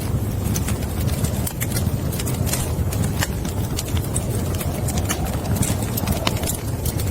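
Wood fire burning in a fireplace: frequent sharp crackles and pops over a steady low rumble of the flames. A faint wavering whistle comes in near the end.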